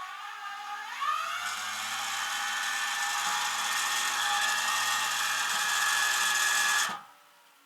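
A small electric motor whirring. It starts, rises in pitch about a second in, runs steadily for about six seconds, then cuts off suddenly.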